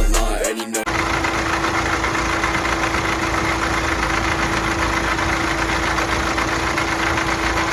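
Range Rover Velar engine idling with a knock, which the mechanic takes for a knocking piston. It starts about a second in, after music cuts off, and runs steadily.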